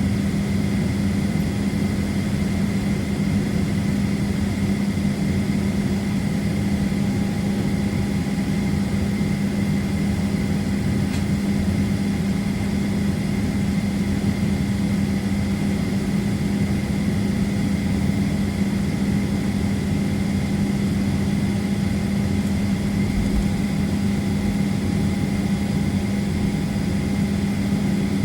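Steady drone of a Boeing 737 airliner on the ground at low power, a constant low hum with a thin steady whine above it.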